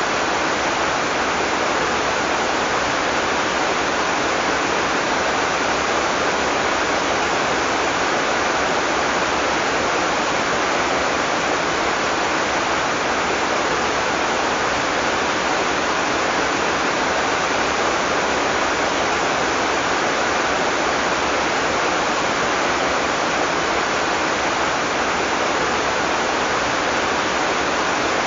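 Heavy tropical rain falling steadily, a dense even hiss with no thunder.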